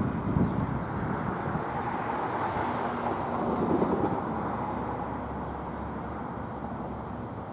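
Train rolling past with a steady rumble and rush that slowly fades after about four seconds.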